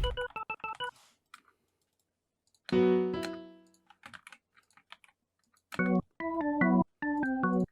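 Electric-piano-style software keys played in isolated bits: a few short notes at the start, one chord about three seconds in that rings out, then a run of short, clipped chords starting near six seconds.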